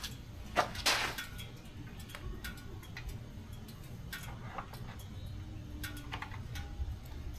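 Scattered light clicks and taps of small hard parts or tools being handled, with a sharper click about a second in, over a low steady background rumble.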